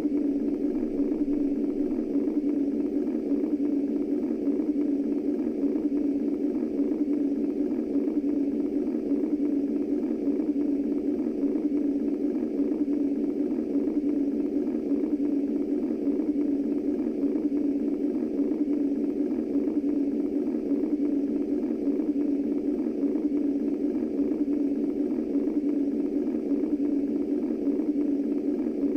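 Womb-style white noise for infant sleep: a steady, deep, muffled rushing noise, heavy in the low-middle range with little hiss on top. It holds at an even level throughout, with no heartbeat pulse or other change.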